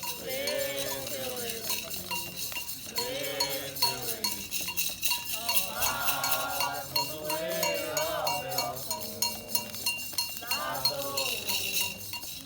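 Voices singing a Candomblé chant in short phrases over a metal bell struck in a steady, even rhythm.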